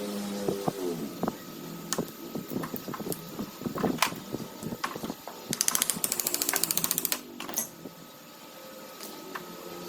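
Scattered clicks and knocks of hand work on metal parts, with a fast, even rattle lasting about a second and a half just past the middle.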